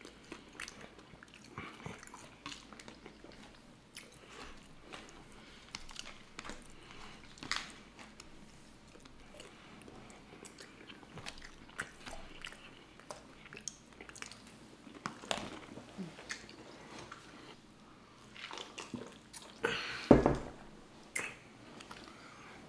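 Close-miked chewing and biting as two people eat, with scattered small clicks and mouth noises. A louder knock about twenty seconds in.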